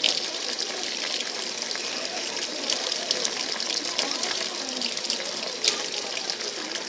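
Water rushing and splashing in the open tub of a Brastemp BWL07A top-loading washing machine: a steady hiss with many small splashes.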